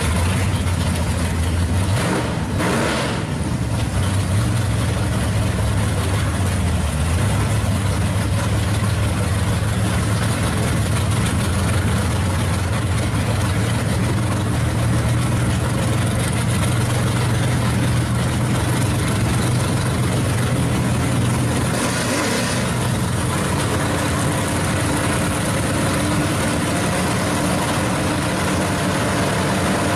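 Engines of two drag cars, one a first-generation Chevrolet Camaro, idling at the starting line: a loud, steady low rumble, with brief changes about two seconds in and again about twenty-two seconds in.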